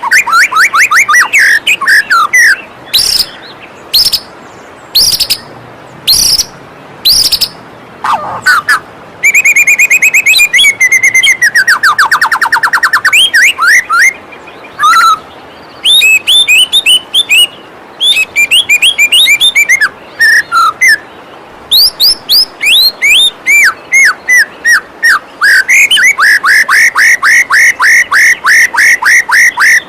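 White-rumped shama (murai batu) singing a varied song of clear whistles, chattering trills and fast runs of sweeping notes, ending in a long series of about four repeated notes a second. A steady rush of falling water runs underneath.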